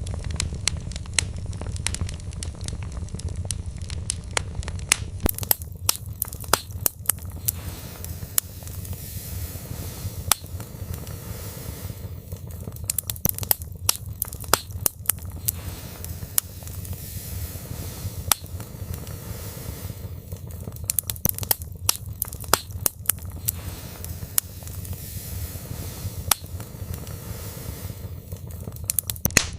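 Wood fire burning in a fireplace: logs crackling and popping irregularly over a steady low rumble of flames.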